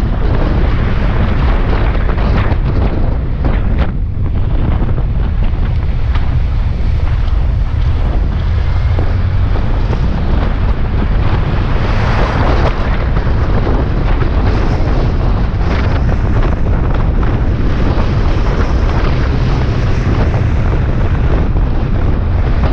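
Suzuki Bandit 650S inline-four engine running at road speed under heavy wind buffeting on the microphone, a steady loud rumble with a brief louder rush about halfway through.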